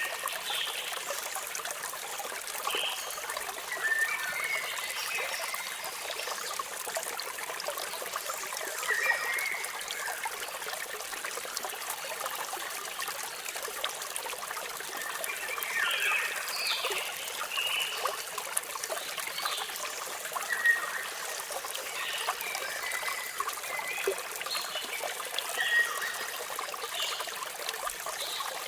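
Steady rush of running water, with birds chirping in short scattered bursts every few seconds.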